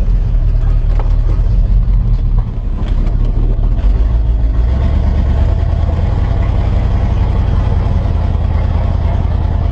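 Tow truck engine running loud through a muffler that needs fixing, a deep steady rumble. It dips briefly about two and a half seconds in, then picks up and holds a heavier rumble from about five seconds in.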